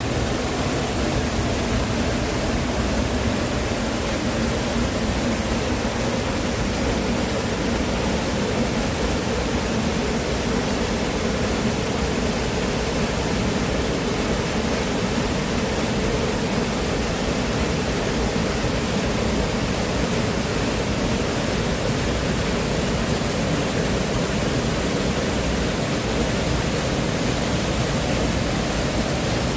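Steady, even rush of flowing water, like a waterfall or fast stream.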